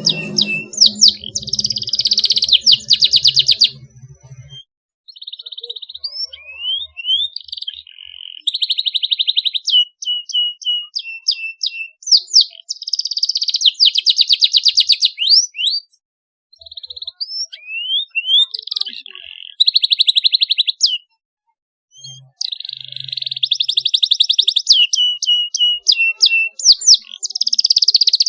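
Domestic canary singing: phrases of fast rolling trills and rising whistled notes, broken by short pauses.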